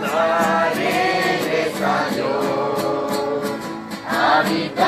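A group of young people singing a Spanish worship song together, with evenly spaced strokes of accompaniment keeping the beat.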